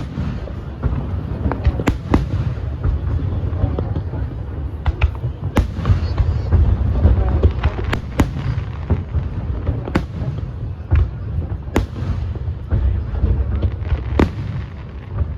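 Fireworks display: shells bursting in sharp bangs at irregular intervals, a dozen or more, over a continuous low rumble.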